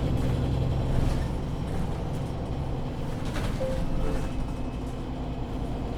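MAN Lion's City 19C EfficientHybrid articulated bus heard from inside the cabin, its diesel engine running, easing off about a second in to a lower, steady drone.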